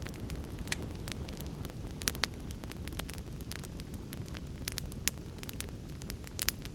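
Wood fire crackling in a fireplace: a steady low rumble of burning with a constant scatter of sharp snaps and pops, a few louder ones about two seconds in and near the end.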